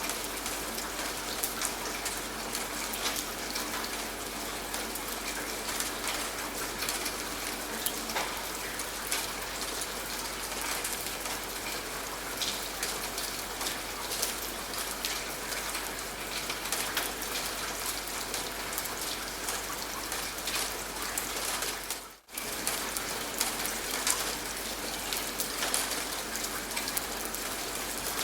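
Steady rain falling on a surface, with a dense patter of individual drops. The sound cuts out for a moment about twenty-two seconds in, then resumes.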